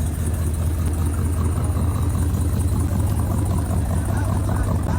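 A car engine running with a deep, steady rumble.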